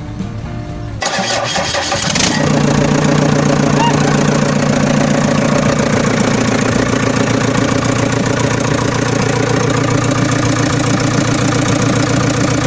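Tractor engine starting: a burst of cranking about a second in, catching about two seconds in, then idling steadily.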